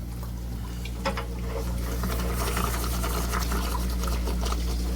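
Water splashing and trickling out of an electric water heater's element opening, growing from about two seconds in, over a steady low hum. A click about a second in.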